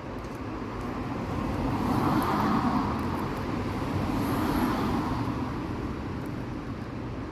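Road vehicle passing by: a steady rush of noise that swells to a peak a few seconds in and then fades.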